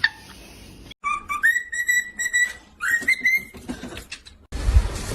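A high whistle, held steady for about two seconds, then a shorter whistle that rises into the same pitch; near the end it cuts abruptly to louder, noisy sound.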